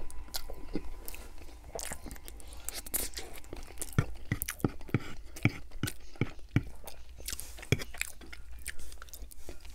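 Close-miked chewing and mouth sounds of a mouthful of meatloaf, with a fork working into the loaf. A run of sharp clicks, about two a second, comes in the middle.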